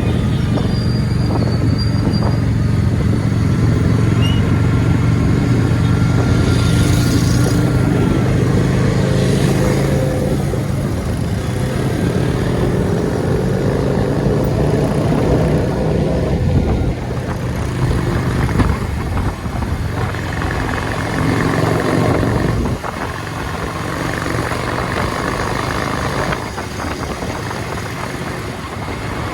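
Motorcycle engine running under way through road traffic, its note shifting up and down as the rider changes speed, over steady road noise.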